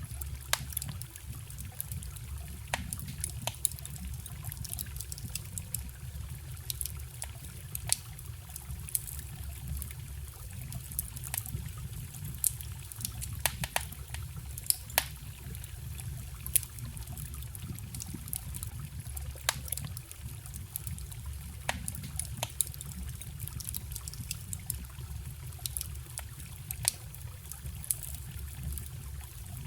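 Wood campfire crackling, with sharp pops and snaps at irregular moments, a few louder than the rest, over the steady low rush of a small forest stream.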